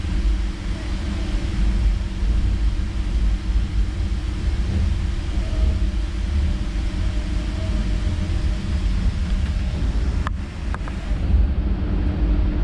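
Metre-gauge electric train of the Centovalli Railway running through a tunnel into an underground station, heard from on board: a steady low rumble with a faint hum, and a couple of sharp clicks about ten seconds in.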